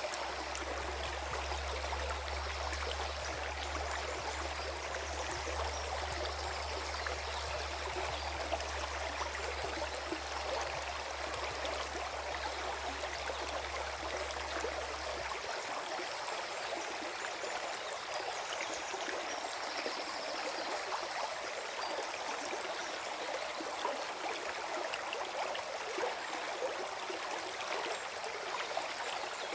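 Forest stream gurgling steadily. A low rumble runs underneath and stops abruptly about halfway through.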